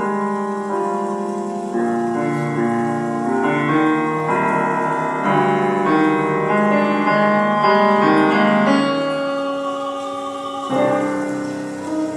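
Instrumental accompaniment led by piano, playing a slow run of sustained chords that grows louder toward the middle, with a new chord struck near the end.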